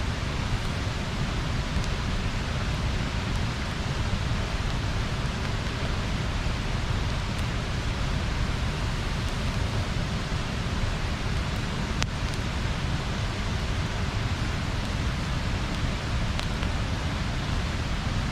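Steady rushing of river water pouring over a small weir, an even unbroken noise, with a couple of faint ticks.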